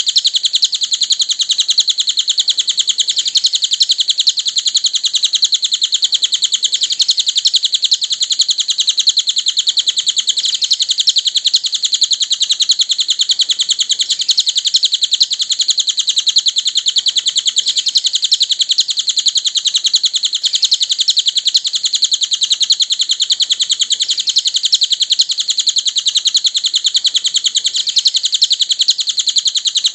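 Cililin bird calling: a steady, unbroken stream of rapid, high-pitched chirps.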